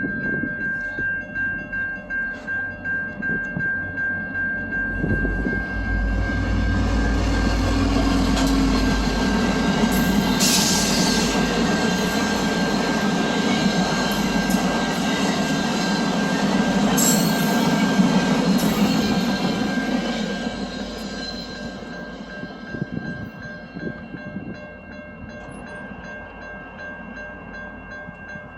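A train passing by. A low rumble builds about five seconds in, then wheel and car noise runs loud for about fifteen seconds, with two brief high-pitched bursts along the way, before fading away.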